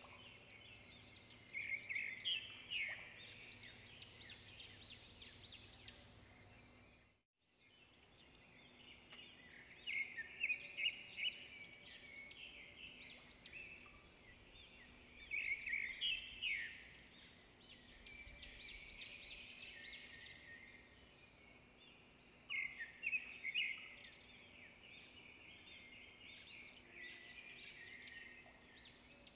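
Birds chirping in repeated bursts of quick, high notes, with a brief break in the sound about seven seconds in.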